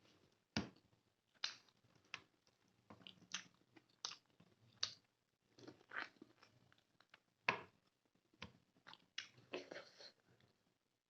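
Close-up mouth sounds of someone eating rice with chicken gravy: chewing with short wet smacks and clicks at an uneven pace, about one or two a second.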